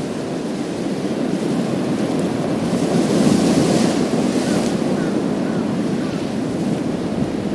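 Sea waves breaking and washing over a pebble beach. A louder wash about three seconds in adds a bright hiss that lasts a second or two, then eases back to a steady rumble of surf.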